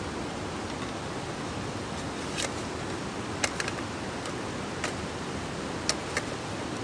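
Campfire burning: a steady hiss with about seven sharp pops and snaps from the burning wood, scattered through the second half.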